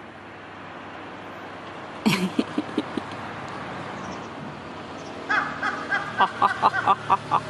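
Large-billed crow calling: a few short harsh notes about two seconds in, then a quick run of about eight short caws near the end, with traffic hum rising behind.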